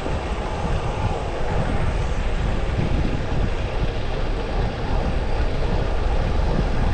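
Steady rush of wind buffeting the microphone on a moving road bike, heavy in the low end, with road and traffic noise under it.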